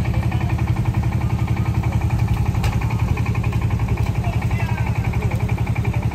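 An engine idling steadily, with an even, rapid pulse of about nine beats a second. A short sharp click about two and a half seconds in.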